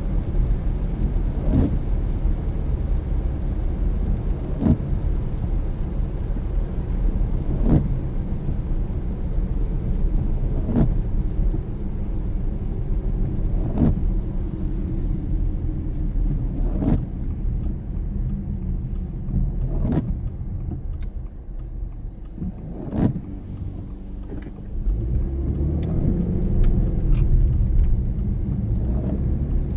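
Steady road and engine rumble of a car driving on a wet road, with a short windshield-wiper stroke about every three seconds. The rumble dips briefly, then grows louder again near the end.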